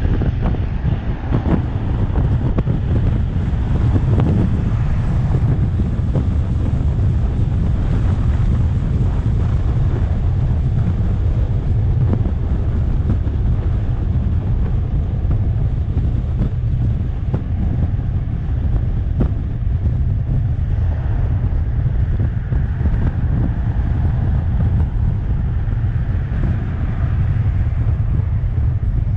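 Wind buffeting the microphone on a moving electric scooter, a loud, steady low rumble with no engine note.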